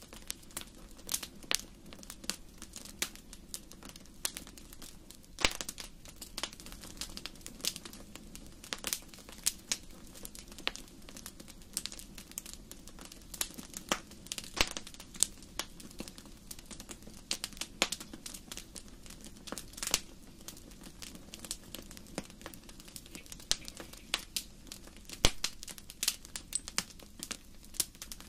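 Wood fire in a fireplace crackling: irregular sharp pops and snaps, a few louder than the rest, over a faint steady low rush.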